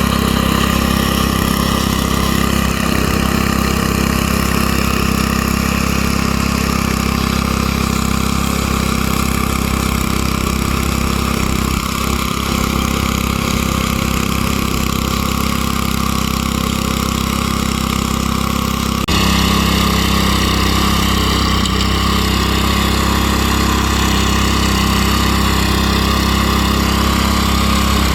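Small gasoline engine running steadily, as of garden power equipment such as a tiller; the sound shifts abruptly about two-thirds of the way in.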